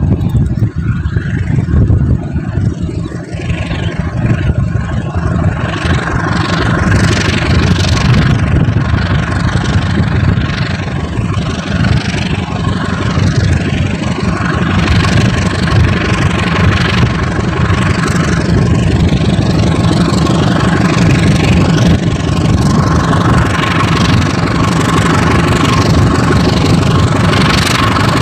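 Diesel locomotive of a container freight train running as the train pulls away, a steady heavy engine rumble with a held tone, with repeated clatter from the rolling wagons.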